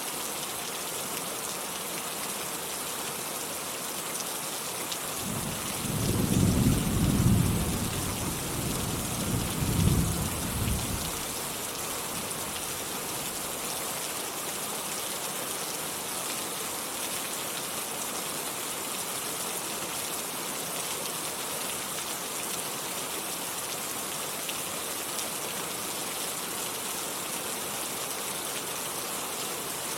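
Steady rain falling, with a roll of thunder about five seconds in that rumbles for some six seconds, peaking twice, then fades back into the rain.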